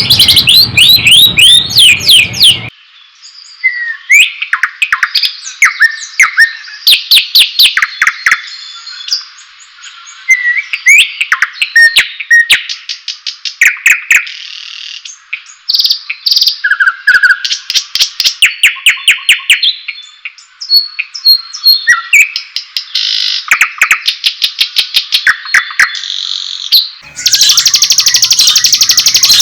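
White-rumped shama (murai batu) song: a varied run of whistles, pitch glides, trills and rapid repeated notes. It comes in loud, dense bursts of fast notes at the start and again from about 27 s, with a thinner, more spaced-out stretch of song in between.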